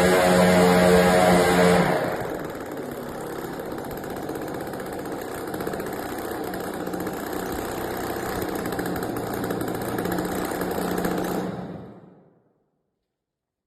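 550cc UAV engine running at high throttle, then dropping to a lower, steady idle about two seconds in, then shutting off and winding down to silence near the end.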